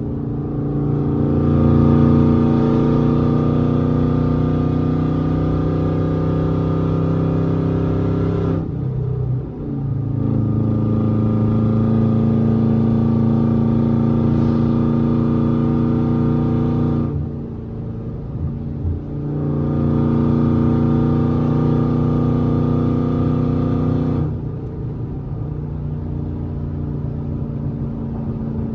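Dodge SRT8 392's 6.4-litre HEMI V8 running under throttle while driving, in three sustained pulls of several seconds each at a steady pitch, easing off briefly between them. The engine is throwing random and cylinder 4 misfire codes (P0300, P0304), which the owner blames on worn lifters.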